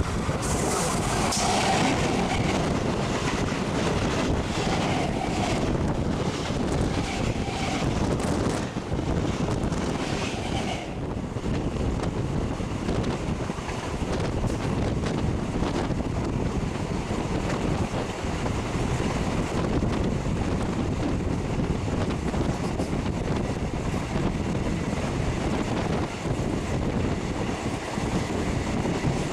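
Steady rumble of a suburban electric multiple unit (EMU) train running at speed, heard from an open door with wind on the microphone. For the first ten seconds or so an oncoming EMU passes on the next track, adding a hissing rush full of quick clacks that cuts off suddenly.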